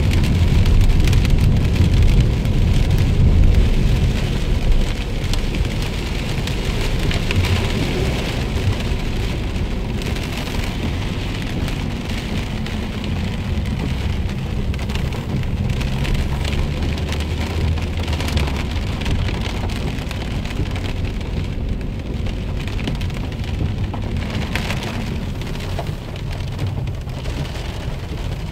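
Heavy rain falling on a moving car's body and windscreen, heard from inside the car, over a low rumble of the car's engine and tyres on the wet road. The rumble is stronger in the first half and eases off later.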